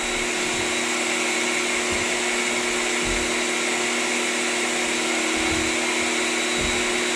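A large electric motor running steadily with a hum and a high whine, having spun up just before.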